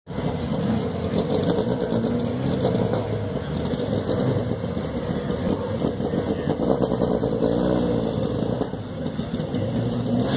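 Lancia rally cars' engines running at low revs as the cars drive slowly past: a Lancia 037 at first, then a Lancia Fulvia coupé with its narrow-angle V4. The engine note rises and falls briefly about three-quarters of the way through.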